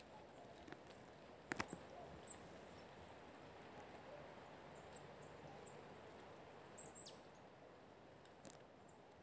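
Near-quiet background with a few faint, high, thin chirps of small birds, one a quick falling call about seven seconds in. A single sharp click sounds about one and a half seconds in.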